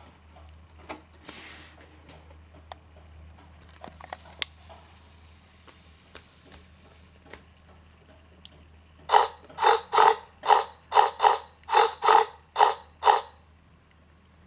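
A farm animal calling in about eight short, loud, evenly spaced notes in quick succession, after several seconds of faint clicks and scrapes.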